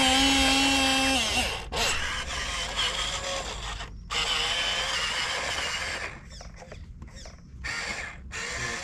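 Small electric motors and gearboxes of a radio-controlled model excavator whining as its arm and cab are worked. The whine is steady for about the first second, then turns into a rougher whir that stops and starts several times near the end as the controls are moved.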